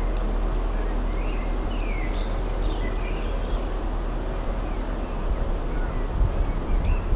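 Narrowboat engine running with a steady low rumble, while birds chirp over it now and then.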